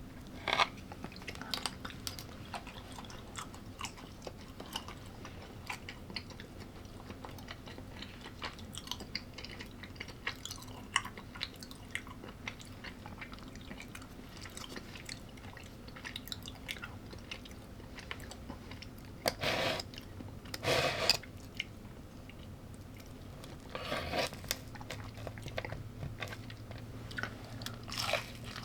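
A person chewing and crunching food close to the microphone: many small wet mouth clicks, with several louder crunches about two-thirds of the way through and again near the end.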